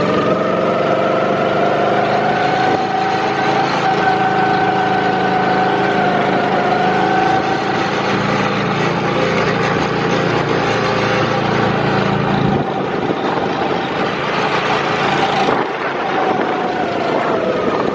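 Go-kart engine running at speed: a steady engine whine that rises and falls slightly in pitch.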